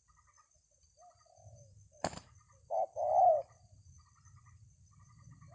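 Spotted dove (tekukur) cooing: a soft coo about a second in, then a loud two-part coo around three seconds in. A single sharp click comes just after two seconds.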